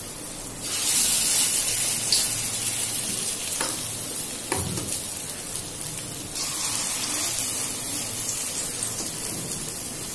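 Pakora batter of ridge-gourd peel and potato sizzling in hot refined oil in a kadai. The sizzle swells louder about a second in and again past halfway as spoonfuls of batter go into the oil, with a few light clicks of the spoon.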